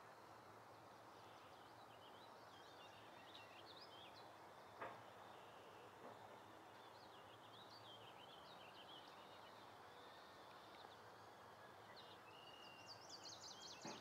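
Faint songbirds singing in short bursts of quick chirping phrases, busiest near the end, over a soft steady hiss. One sharp click about five seconds in.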